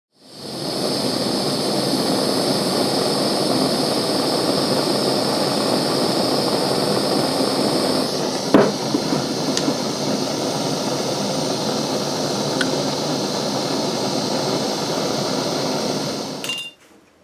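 Steady roaring hiss of a heating tool, heating a spent shotgun cartridge's brass head to free it from the plastic hull. It starts abruptly and cuts off suddenly near the end, with a single sharp clink about halfway through.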